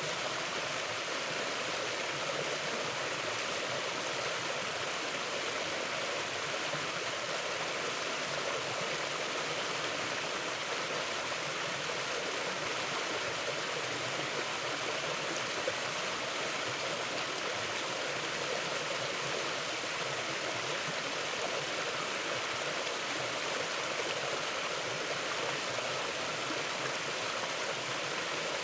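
Mountain river flowing, a steady rushing of water with no breaks.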